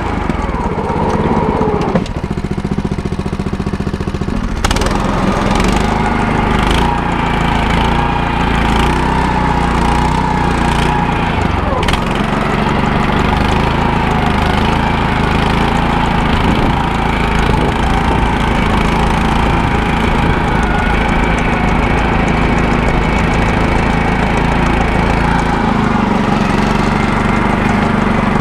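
Small single-cylinder engine of a PermaGreen Triumph ride-on spreader running steadily, with a few sharp clicks during the first dozen seconds.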